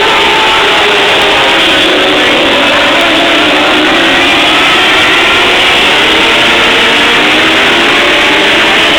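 Several TQ midget race car engines running together on track, their pitches rising and falling as the cars lap, loud and steady throughout.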